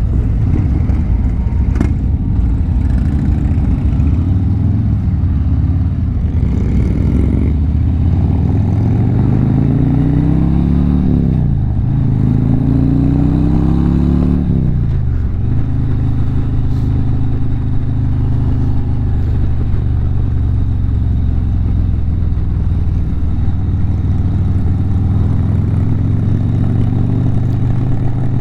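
Harley-Davidson V-twin motorcycle engine under way: it accelerates through two upshifts, its pitch rising then dropping at each gear change around the middle, then settles to a steady cruise.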